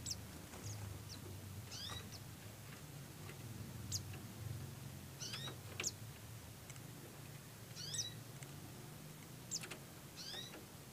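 White-eyes calling: short, thin, high chirps scattered throughout, with a curving call repeated about every two and a half seconds, over a low steady hum.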